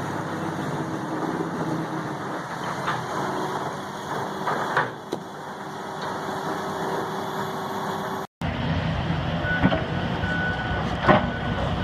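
Heavy forestry machinery running steadily with its diesel engine. About eight seconds in the sound cuts out for an instant, then machine running resumes with a thin steady high tone and a few sharp knocks.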